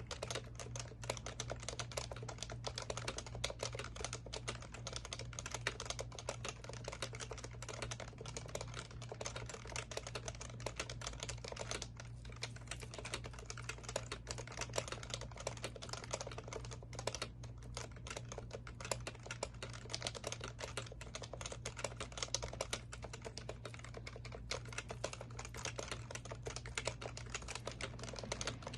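Continuous fast typing on an HHKB Professional Classic keyboard, its Topre capacitive switches giving a dense run of soft keystroke clicks, over a steady low hum.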